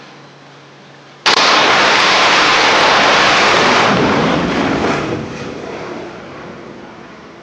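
A sudden, very loud blast-like roar about a second in, holding strong for nearly three seconds and then fading away.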